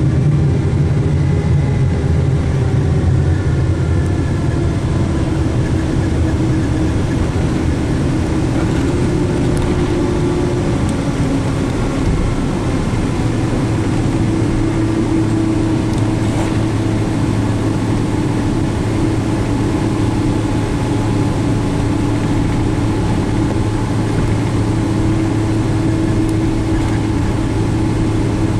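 Jet engine and airflow noise heard inside a Boeing 777-200's cabin: a loud, steady drone with low humming tones. A few faint whines drift in pitch early on.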